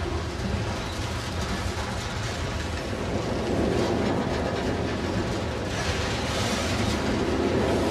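Freight train's covered hoppers and boxcars rolling past, their steel wheels running on the rails in a steady noise that grows a little louder about three seconds in.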